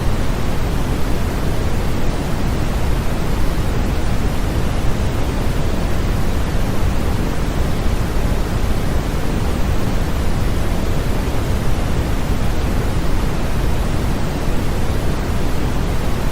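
Continuous generated noise of the white/pink kind: a steady, even hiss, heavier in the low end and thinning toward the top, with no changes or events.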